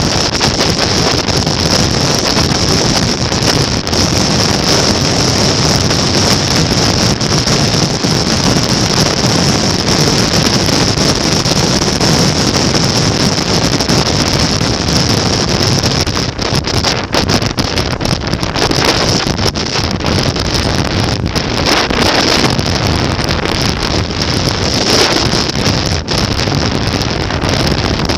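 Loud, steady wind buffeting on the microphone with a motorcycle's running and road noise underneath, typical of riding at speed.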